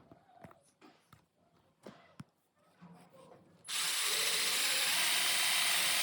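12 V cordless drill switched on about two-thirds of the way in and running steadily with a high motor whine. Small clicks and taps of the drill being handled come before it.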